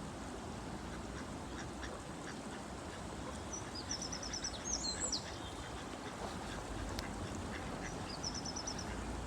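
Ducks calling at a pond over a steady background hiss, with two quick runs of short, high-pitched peeping notes, about four and eight seconds in, and a higher sliding call around five seconds in.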